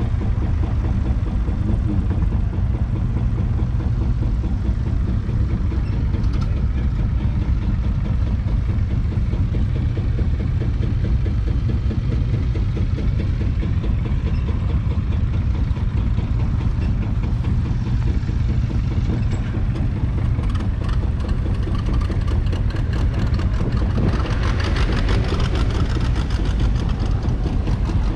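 1954 Allis-Chalmers Model B's 2.1-litre four-cylinder petrol engine running steadily with an even beat. For a few seconds near the end the sound turns brighter and harsher.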